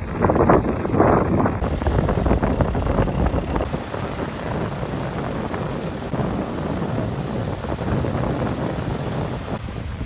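Dive boat's outboard motors running, a rough, noisy engine sound that changes abruptly about a second and a half in and again near the end.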